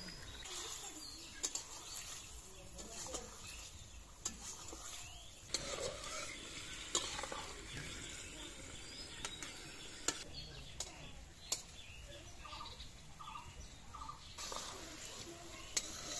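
Fish and cauliflower frying in an iron karahi: a steady sizzle, with a metal spatula scraping and clinking against the pan now and then as the food is stirred.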